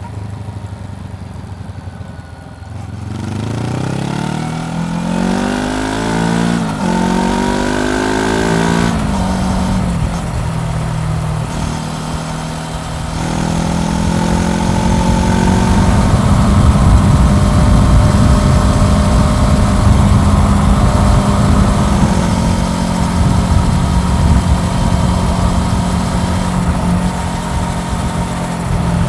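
Honda CBR400R's parallel-twin engine pulling away from idle and revving up through several gears, each shift dropping the pitch before it climbs again, then running at a steady cruise with wind rushing over the microphone.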